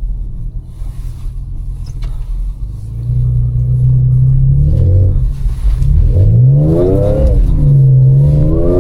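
Supercharged 3.0 V6 of an Audi B8.5 S5 running steadily, then put under hard acceleration about three seconds in: the revs climb and drop back several times as it shifts, with the supercharger's whine rising with the revs.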